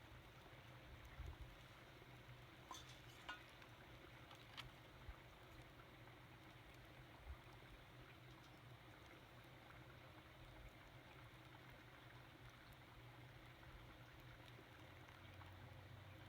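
Near silence: faint steady background noise, with a few soft clicks in the first few seconds.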